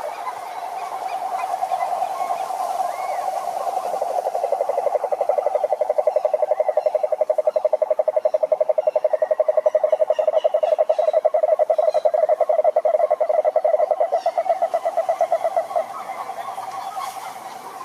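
Frogs calling at a pond: a loud, very rapidly pulsed trill swells up about four seconds in and stops around sixteen seconds, over a softer steady chorus of other frogs.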